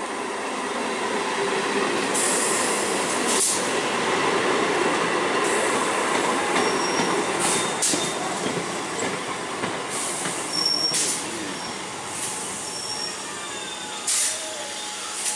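Conventional EMU local train running slowly along the platform: a steady rolling rumble from wheels on rails, with short high-pitched wheel squeals several times and brief hisses.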